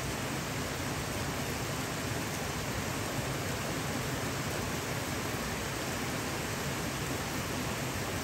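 Heavy rain falling in a steady downpour, a constant even hiss on roofs and trees.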